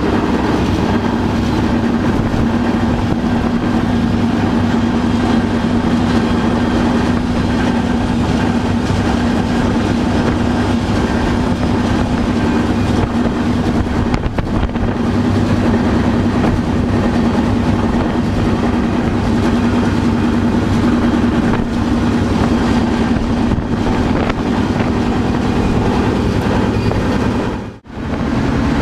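Freight train rolling along, heard from aboard a car: a steady loud rumble and rail noise with a constant low hum. The sound drops out briefly about a second before the end.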